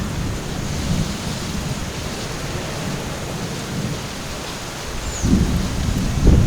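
Weather before a storm: a low, gusty rumble under a steady hiss, swelling louder about five seconds in and again near the end.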